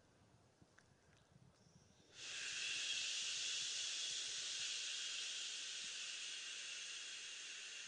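A long, steady 'shhhh' hiss of exhaled breath, the liver sound of the Taoist Six Healing Sounds. It starts suddenly about two seconds in and slowly fades.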